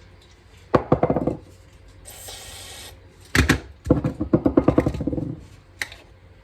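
Pressure washer's small gasoline engine being pull-started twice, the rapid chuffs of cranking coming in two bursts, the second longer, without settling into a run. A short hiss comes between the pulls, and a click comes near the end. The engine has sat for years on bad fuel with plugged carburettor jets.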